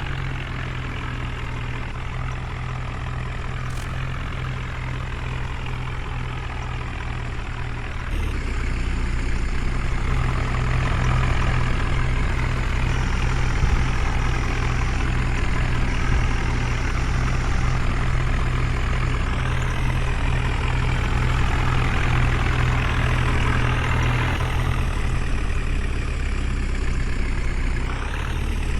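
Heavy diesel engine of a tractor or backhoe loader running steadily, growing louder about eight seconds in.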